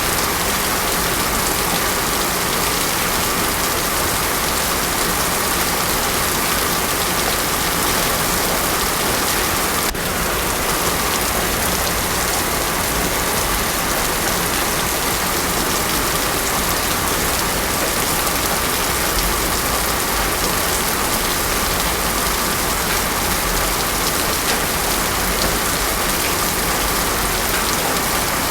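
Heavy rain pouring steadily onto a road surface, a dense even hiss with no thunder. A momentary dip in the sound about ten seconds in.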